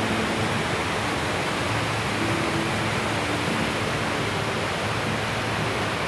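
Steady rush of a fast mountain river, close and loud, with faint held low notes beneath it.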